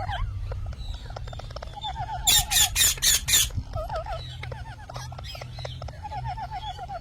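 Parrots calling: a wavering warbled trill repeated several times, with a run of about five loud, harsh squawks a little over two seconds in.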